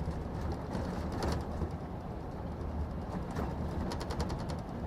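Scania truck's diesel engine running with a steady low hum, heard inside the cab, with short runs of quick light clicks or rattles now and then.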